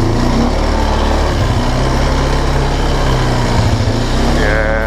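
1999 Kawasaki Prairie 300 ATV's single-cylinder engine running steadily under way. Near the end a wavering high-pitched whine rises over it.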